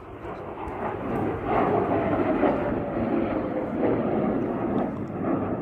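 BAE Hawk jet trainer's Adour turbofan passing low and close overhead: a loud rushing jet noise that swells about a second and a half in, with a faint falling whine as the jet goes by.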